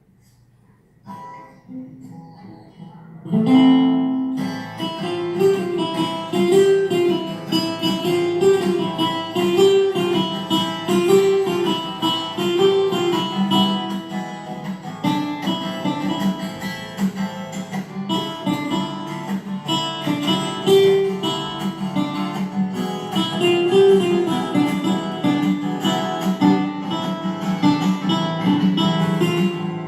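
Acoustic guitar strummed, starting in earnest about three seconds in, with a repeating chord pattern.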